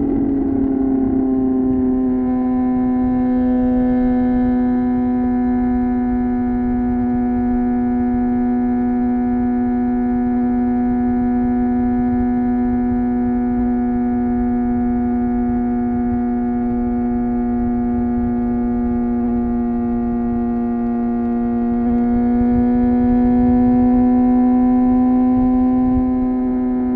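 Suzuki GSX-R 750 inline-four engine and exhaust holding a steady cruise, a smooth even drone with rushing noise beneath. The pitch eases down slightly at the start and climbs a little late on as the throttle opens.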